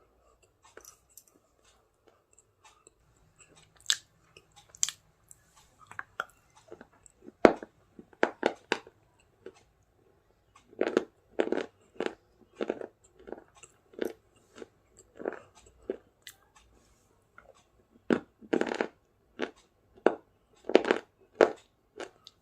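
A person biting and chewing crunchy snack food close to the microphone: sharp, crackling crunches, few at first, then coming about once or twice a second from about seven seconds in.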